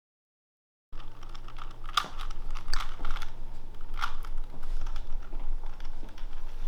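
A run of light, irregular clicks and taps over a steady low hum, starting about a second in after dead silence.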